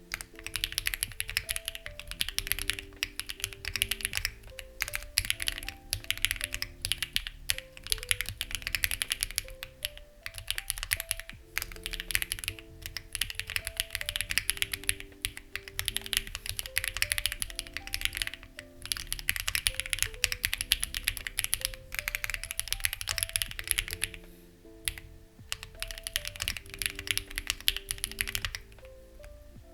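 Continuous typing on a Lucky65 v2 mechanical keyboard with stock, unlubed HMX Ziwei switches and CMK-style keycaps: dense key clicks with brief pauses near the end. Soft background music with slow, stepping notes plays underneath.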